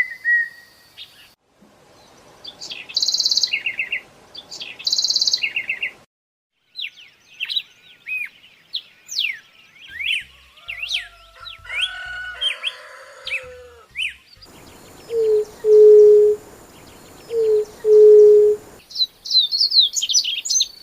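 A string of different birds calling in short segments that cut abruptly from one to the next: whistled notes, rapid buzzy trills, a busy chorus of chirps, then two long, low, steady hooting notes, and quick high chirps near the end.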